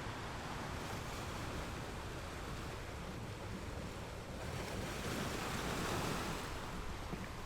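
Sea waves breaking on rocks in a steady rush of surf, with one wave swelling about two-thirds of the way through and easing off near the end.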